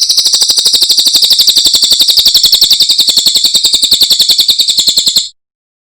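Cililin (small minivet) singing: a loud, fast, even trill of repeated high notes, about a dozen a second, that stops abruptly near the end.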